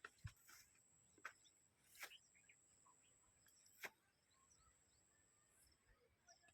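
Near silence: faint outdoor ambience with a few soft clicks and faint chirps.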